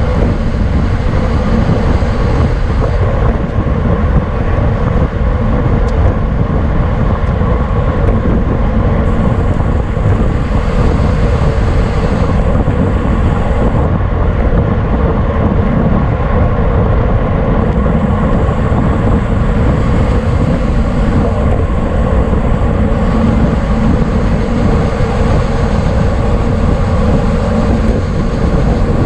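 Steady, loud wind rush and road rumble on the microphone of a bicycle-mounted camera riding at race speed, with a faint steady hum.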